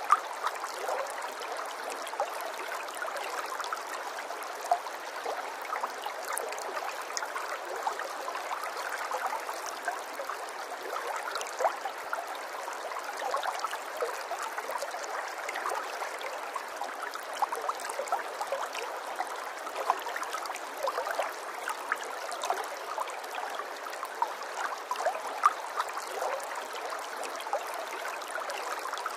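Running water trickling and gurgling steadily, with many small bubbling plinks over an even rush and no deep rumble.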